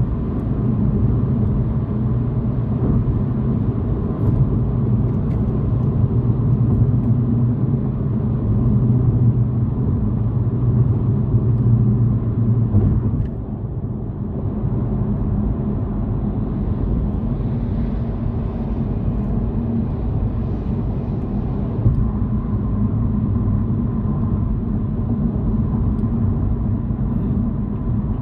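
Car on the move heard from inside the cabin: a steady low rumble of engine and road noise, which drops a little about halfway through.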